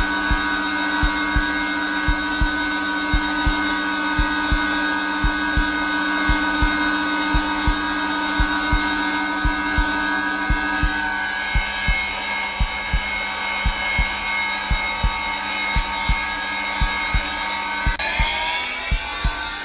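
Zelmer vacuum cleaner running steadily on its lowest power setting, a whining hum with several fixed tones, whose pitch shifts upward slightly near the end. A recorded heartbeat is laid over it: soft double thumps, about one beat a second.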